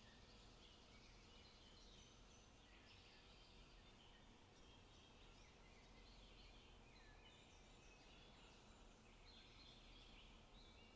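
Several birds chirping and singing faintly and continuously, with a quiet low rumble of background noise underneath.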